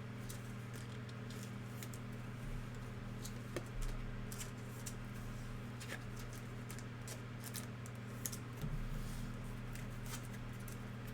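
Trading cards being handled and flipped: many short, crisp card slides and flicks over a steady low hum.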